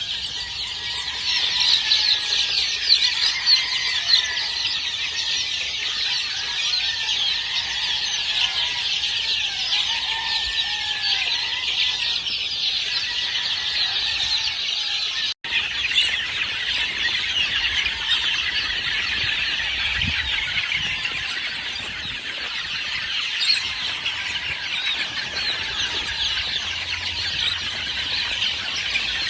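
Farm chickens clucking and calling over a dense, continuous chorus of high-pitched chirps and squeals. The sound cuts out for an instant about fifteen seconds in.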